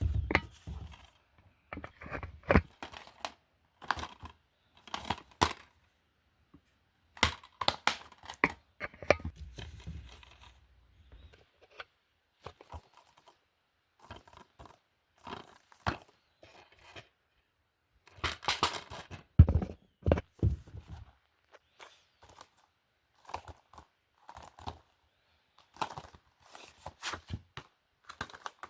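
Plastic DVD and Blu-ray cases being handled: irregular clicks, knocks and rustles as cases are picked up, set down and moved against each other, with a few duller thuds.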